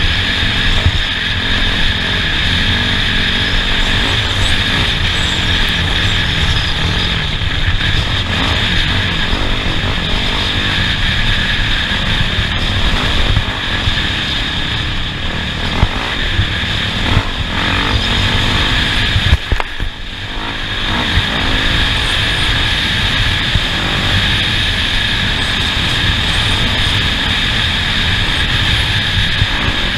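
Off-road race vehicle driving a course, its engine running under load with heavy, steady driving noise. There is a short dip about two-thirds of the way through.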